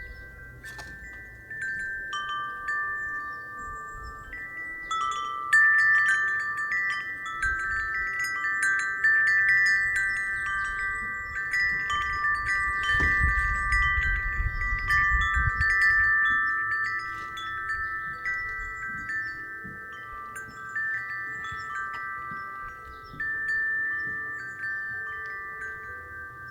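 Wind chime ringing as the wind moves it, its few pitched tones struck again and again and overlapping, busiest through the middle. A low rumble of wind comes in around the middle.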